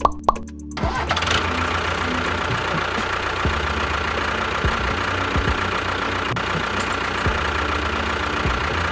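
A motor running steadily, starting about a second in after a few quick plopping clicks.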